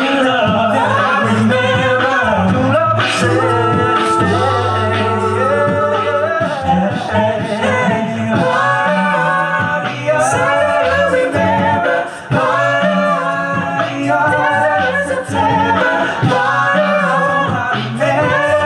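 Male a cappella group singing a pop-funk song in close harmony over a sung bass line, amplified through stage microphones.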